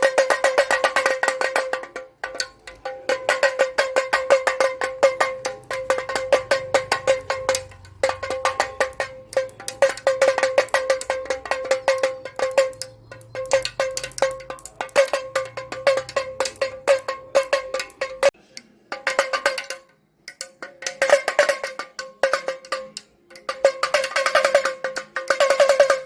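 Damroo (damaru), the small hourglass pellet drum, being twirled so its beads beat both heads in a rapid rattling roll that rings on one steady pitch. It plays in runs of several seconds with short pauses between them.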